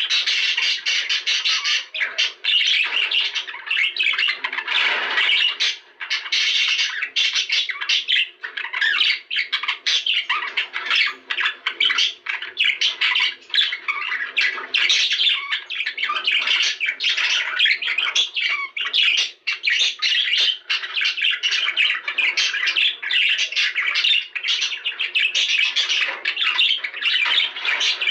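Budgerigars chattering and squawking without pause: a dense stream of rapid warbles and sharp calls.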